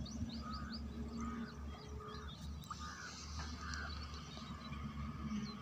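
Several birds calling: a quick run of high chirps in the first second, then scattered lower calls, over a steady low rumble.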